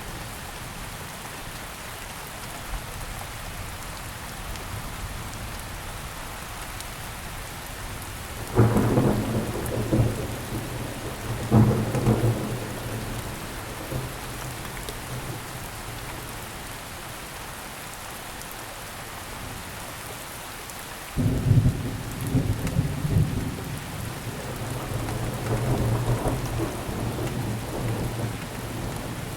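Steady rainfall with thunder: two sudden low claps of thunder about a third of the way in, then a louder clap about two-thirds through that rolls on as a long rumble.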